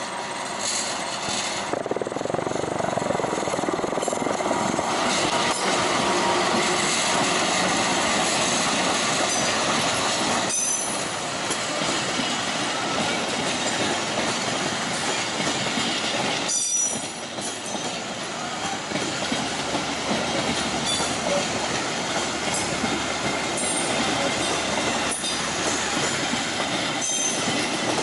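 Passenger train passing close by, its coaches' wheels rolling on the rails in a steady rumble, with squealing wheels and clickety-clack from the rail joints.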